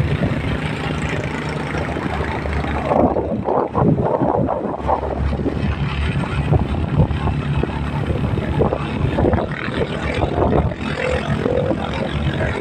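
Vehicle engine running steadily with road noise, heard from a moving vehicle, with a stretch of rougher, uneven noise a few seconds in.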